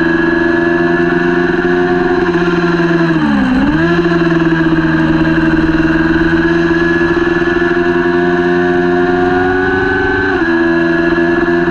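Kawasaki Ninja 400's parallel-twin engine running hard at high revs. The revs dip sharply and pick back up about three and a half seconds in, then step down to a lower pitch near the end.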